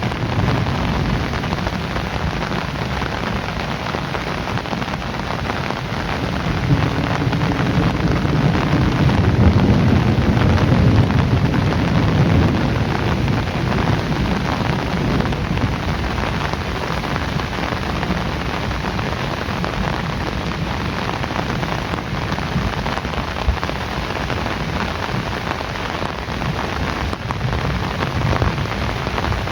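Heavy rain falling steadily. A low roll of thunder swells about a fifth of the way in and fades away before the middle.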